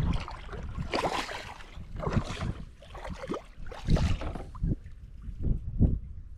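Irregular water splashes and knocks around a kayak as a big hooked bass is fought close to the boat.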